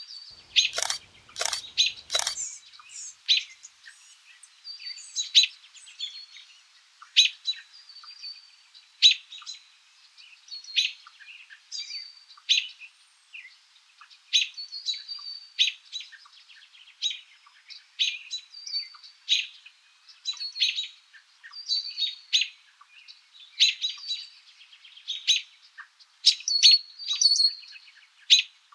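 Small birds chirping: short, sharp chips and tweets repeating about every second. A few sharp clicks come in the first two seconds.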